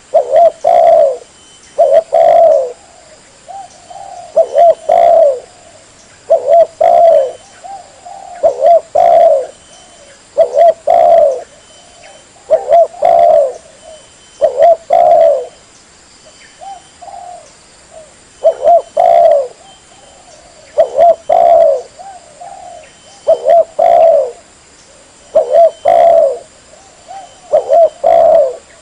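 Spotted dove (tekukur) cooing over and over: phrases of a few short, low coos, one about every two seconds.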